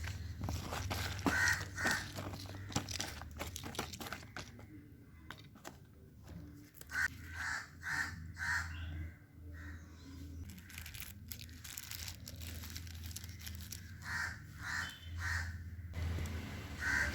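A bird calling outdoors in short runs of two to four quick calls, repeated several times. Scattered rustling, crinkling and clicking handling noises, densest in the first few seconds, and a steady low hum lie under it.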